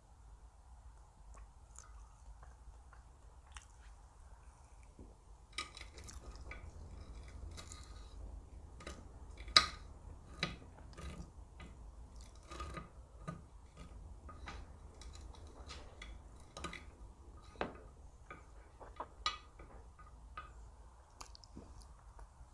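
Close-miked chewing and mouth sounds of someone eating, with scattered sharp clicks and knocks, the loudest about ten seconds in.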